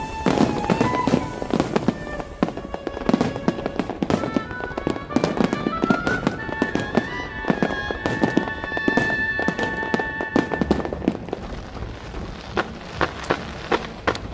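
Aerial fireworks bursting and crackling in quick succession, many sharp bangs a second, while music with a melody plays.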